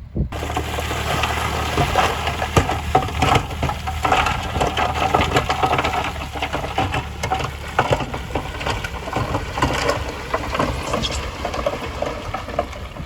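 Heavy earthmoving machine's diesel engine running steadily, with the crunch and clatter of gravel and stones being moved. The engine hum eases in the second half.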